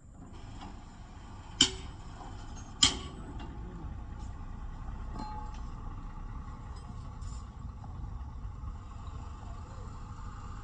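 Two sharp knocks a little over a second apart, then a few faint clicks, over a steady low rumble.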